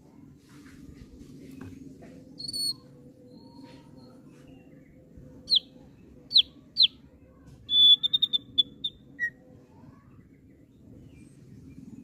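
Thick-billed white-eye (opior paruh tebal) calling: a single high note, then three sharp down-slurred whistles, then a quick chattering run of short notes, over a faint low hum.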